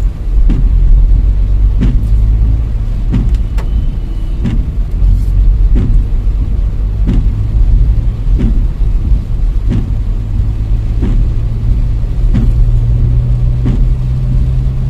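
Car on the move: a steady low rumble of engine and road, with a short knock about every second and a half.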